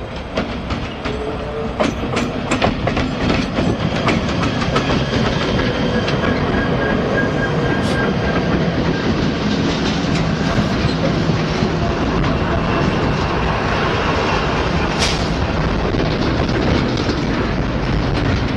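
Norfolk Southern freight train passing close by: its diesel locomotives rumble past, then double-stack container cars follow. Wheels click rapidly over rail joints, heaviest in the first few seconds, and the sound grows louder about two seconds in as the engines draw level.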